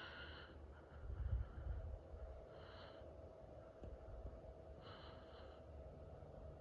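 A person breathing close to the microphone, a breath about every two and a half seconds, over a faint steady hum, with a low rumble about a second in.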